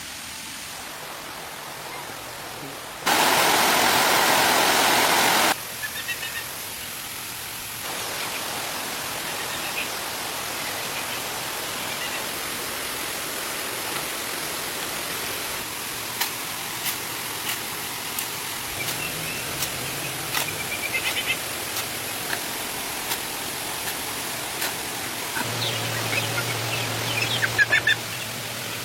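Steady rushing noise of running water, much louder for a couple of seconds about three seconds in. Scattered clicks and short high chirps come later, with a low steady hum near the end.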